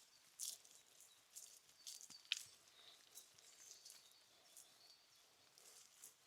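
Faint forest ambience: scattered small clicks and light crackles with a few short bird chirps, the sharpest one a little past two seconds in.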